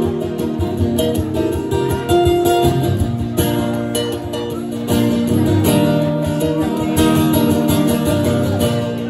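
Acoustic guitar strumming steadily, with sustained notes ringing over the strokes: the instrumental introduction to an Irish folk ballad before the vocal comes in.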